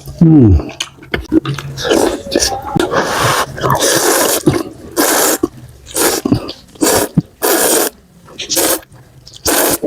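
Close-miked mukbang eating: spicy noodles and rice cakes slurped in a series of short, loud, hissy slurps, with chewing and mouth sounds between them.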